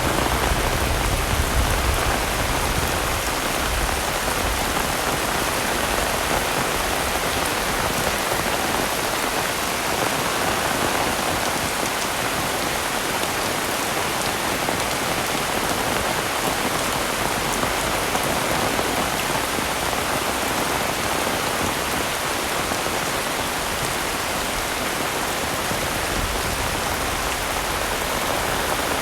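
Heavy rain falling steadily, drops pattering on surfaces all around in a dense, even hiss.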